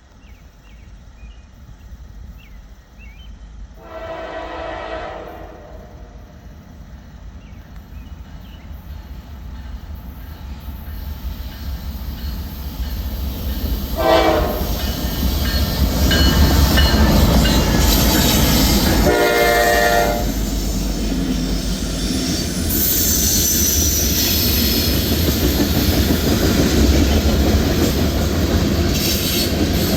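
A train approaching and passing, its locomotive horn sounding three times: a long blast about four seconds in, a short one about halfway, and another a few seconds later. The rumble and wheel noise grow steadily louder until the train is going by close at hand.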